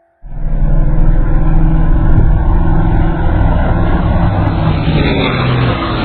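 Two Camaros launching and running at full throttle in a street drag race, very loud engine noise that starts suddenly and holds steady.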